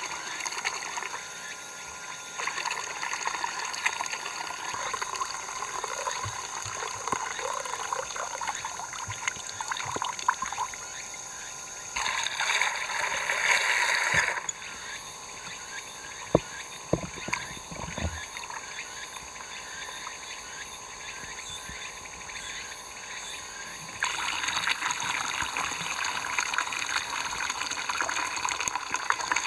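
Water trickling and pouring, louder for about two seconds near the middle and again for the last few seconds, with a few short knocks in between.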